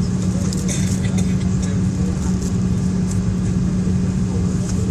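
Steady drone inside an airliner cabin: the jet engines and cabin air make an even, loud low hum with a rumble beneath it, and a few faint ticks about half a second to a second in.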